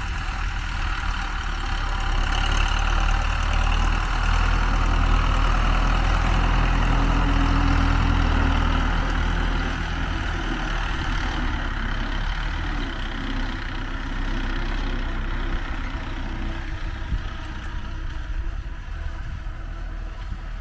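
Tractor engine running steadily while pulling a rotary hoe harrow across a field. It is loudest near the middle and grows fainter over the second half.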